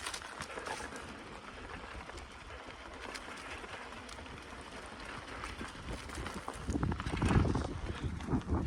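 Bicycle riding along a forest track: tyres crunching over the ground with small clicks and rattles from the bike, then wind buffeting the microphone with a low rumble from about six and a half seconds in.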